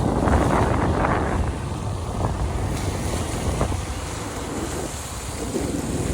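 Steady rushing and rumbling of wind on the microphone, mixed with vehicle noise on a wet, rainy road.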